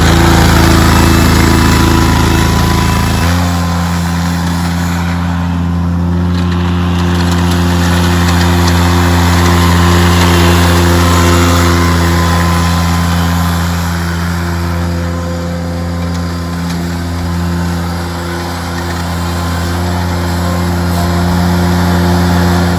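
Kubota liquid-cooled engine of a Steiner 430 articulated tractor running steadily, its note shifting slightly about three seconds in, then stopping abruptly at the very end. The seller judges it in good operating condition but in need of a carburetor cleanup and minor tune-up.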